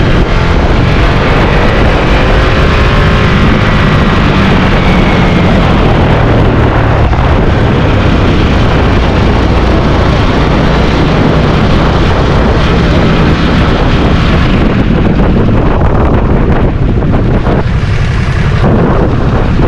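Motorcycle engine running on the move, with heavy wind noise on the microphone. The engine pitch rises and falls a few seconds in.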